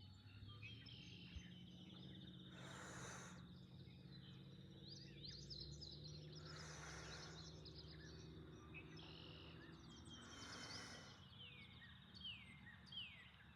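Wild birds chirping and singing faintly, with a few falling whistled notes near the end. A soft rush of noise comes three times, about four seconds apart.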